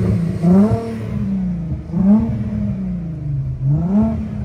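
VR6 engine in a 1983 Volkswagen Rabbit GTI (MK1), revved in three quick blips while parked, each rising and then falling back toward idle.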